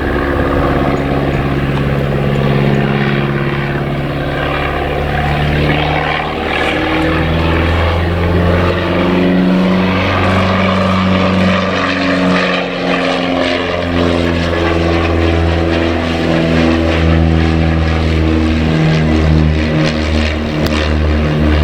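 Piston engine of a propeller-driven light aircraft running in flight, its note shifting up and down in pitch several times as it passes.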